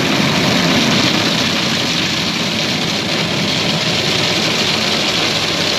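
Automatic car wash at work on the car, heard from inside the cabin: a loud, steady rush of water spray and wash machinery on the body.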